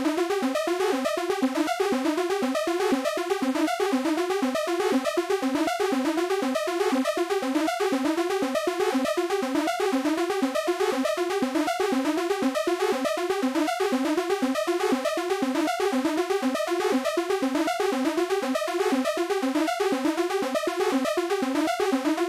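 Arturia MicroFreak synthesizer playing a fast, evenly repeating arpeggiated sequence in Unison Mode with stacked, detuned oscillators, each short note sweeping upward.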